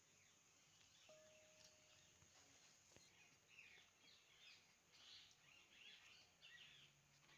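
Near silence with faint birds chirping: short high calls that repeat more and more often from about two seconds in, and a brief steady whistle about a second in.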